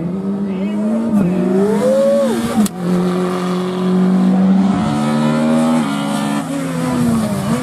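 Mitsubishi rally car engine revving hard under load, its pitch climbing, dropping and climbing again through gear changes, with a single sharp crack about two and a half seconds in.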